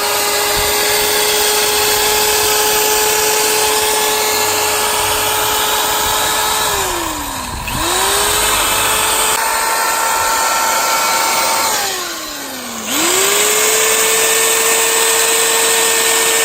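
Electric drill spinning a 3M headlight restoration kit's sanding disc against a headlight lens: the coarse-grit first sanding step. A steady motor whine winds down and spins back up twice, about seven and about twelve seconds in.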